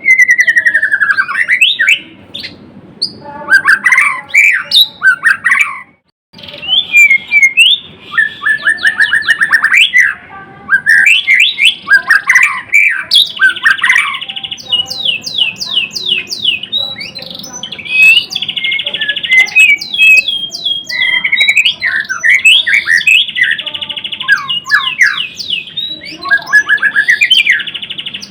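White-rumped shama (murai batu) singing continuously: a varied song of clear descending whistles, rapid trills and harsh buzzy notes, with a brief pause about six seconds in.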